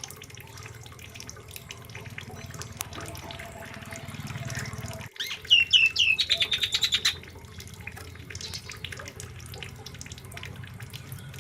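A songbird calling: about five seconds in, a few quick falling chirps run straight into a fast trill of repeated high notes lasting about two seconds. Under it, a steady background noise with faint clicks.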